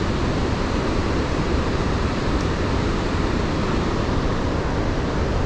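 Steady rush of Iguazu Falls, a continuous even wash of falling water heavy in the low end.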